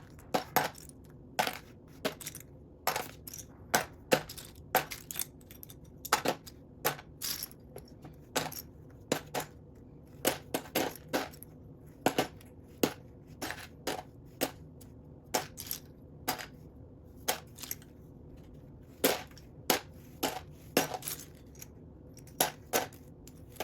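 Loose plastic Lego bricks clicking and clattering, sifted through by hand in a pile of pieces, in irregular clusters of sharp clicks.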